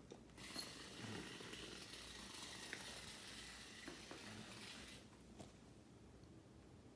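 Faint, even buzzing hiss of a small battery-powered vibrating toy mouse running on a table, stopping about five seconds in.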